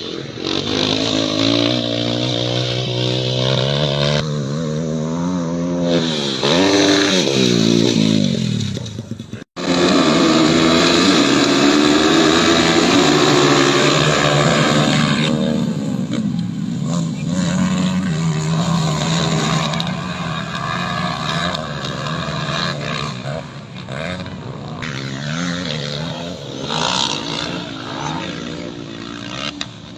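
Motocross bike engine revving, its pitch climbing and dropping again and again as it accelerates and shifts, with a sudden brief cut-out about nine seconds in.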